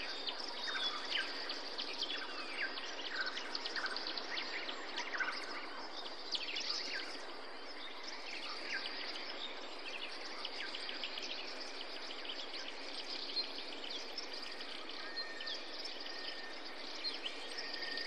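Several small birds chirping and calling in quick, short notes over a steady background hiss, busiest in the first half and thinning out later.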